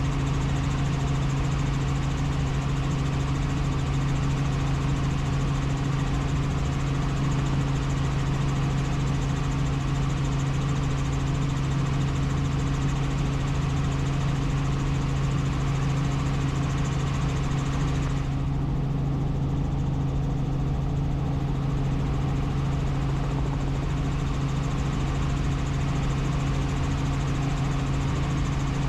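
Steady helicopter drone of engine and rotors with a strong low hum. The higher part of the sound dulls for a few seconds about two-thirds of the way through.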